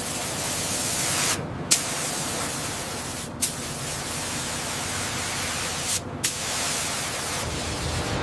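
Steady loud hiss of a high-pressure jet that cuts out briefly three times, each restart starting with a sharp crack.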